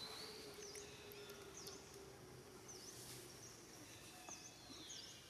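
Faint outdoor background noise with a bird's short, high chirps repeated at irregular intervals, about seven times, and a high falling call near the end.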